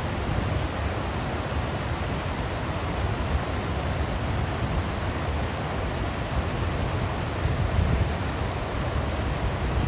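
Stream water rushing and babbling over rocks and small weirs, a steady full wash of sound with a deep low rumble.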